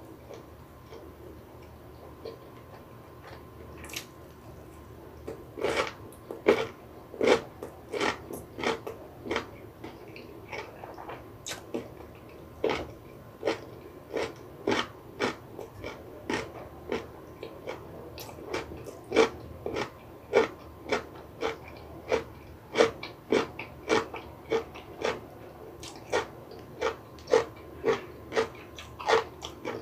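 Close-miked chewing of crunchy food, sharp crisp crunches about twice a second, starting about five seconds in after a quieter stretch of faint mouth clicks.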